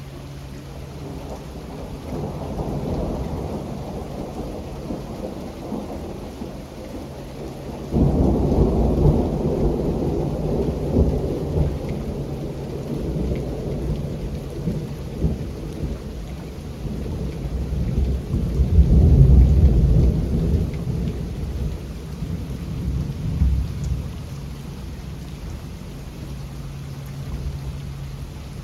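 Steady rain with rolling thunder: a low rumble swells about two seconds in, then a sudden loud thunderclap about eight seconds in rolls on, swells again a little past the middle, and dies away over the last few seconds.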